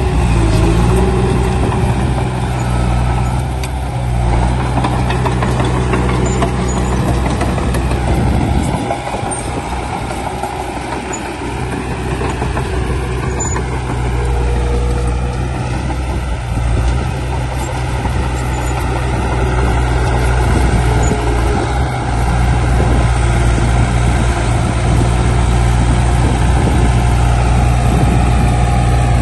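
Heavy diesel earthmoving machinery running: a deep, steady engine note that eases off for a few seconds about nine seconds in, then builds back up.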